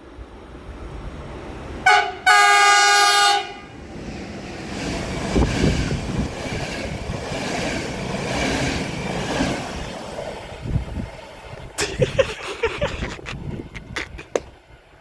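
Passing train's horn: a brief toot, then a loud held blast of about a second. It is followed by the train rushing past and a run of sharp clicks from its wheels near the end.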